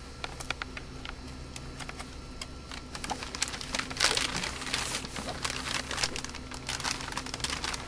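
Plastic bag crinkling as a cat licks it: scattered light crackles at first, then denser, louder crinkling from about three seconds in.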